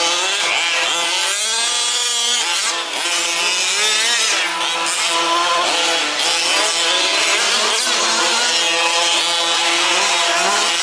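Several 1/5-scale RC off-road trucks' small two-stroke petrol engines running together on the track, their pitches sliding up and down as they rev and back off through corners.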